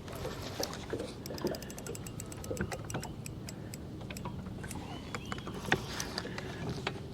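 Fishing reel ticking in fast, even runs of clicks while a hooked striped bass is being played on the line, with one sharper click a little before the end.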